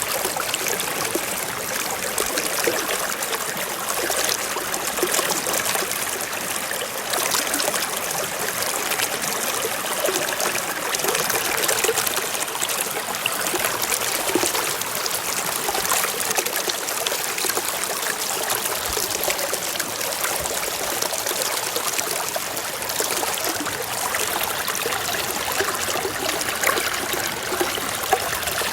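Shallow stream running and trickling over rocks, a steady splashing babble.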